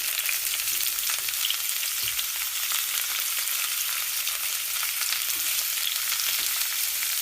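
Steady, dense rain patter: a crackling hiss of many fine drops.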